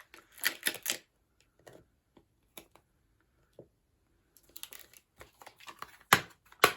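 Clear stamps and acrylic stamping blocks being handled on a craft desk: scattered light clicks and rustles, busier near the end, with two sharp clacks of a block being set down or knocked against the desk.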